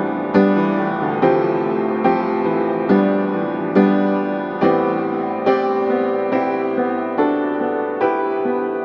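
Background piano music: slow, gentle chords struck a little under once a second, each ringing on and fading.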